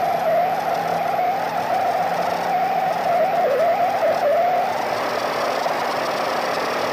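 Steady, rumbling hiss-like drone presented as the 'sound of Mimas', Saturn's moon, with a wavering, warbling tone running through it that fades out about five seconds in. Its own original uploader says it is fake.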